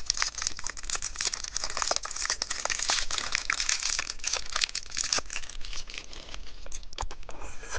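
Crinkly plastic candy wrapper being torn open and handled, a dense crackle of small clicks that thins out near the end.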